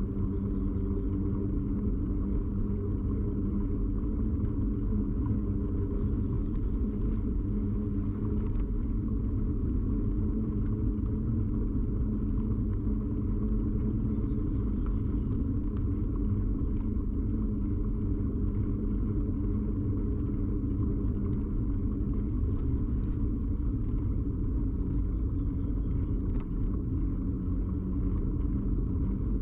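Steady rumble and droning hum of a bicycle in motion, carried into a camera mounted rigidly on the bike's frame: road and tyre vibration passed through the mount.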